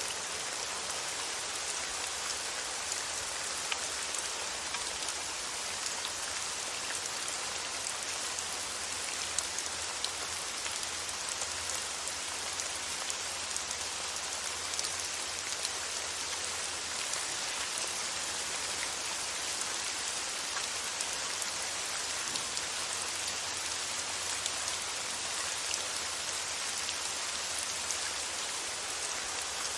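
Steady rain, with many fine droplet ticks over an even hiss, used as a white-noise track. A faint low hum sits beneath it.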